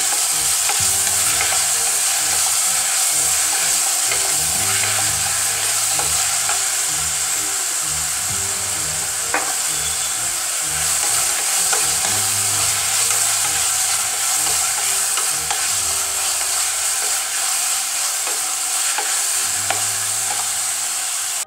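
Sliced onions and tomatoes sizzling in hot oil in an aluminium pressure cooker, stirred with a wooden spatula that scrapes and knocks now and then against the pot. The onions are being sautéd with a little salt until they just soften.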